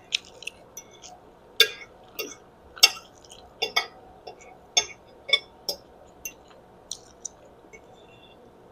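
A fork clinking and tapping against a dish while eating spaghetti, in irregular sharp clicks, some with a brief ring.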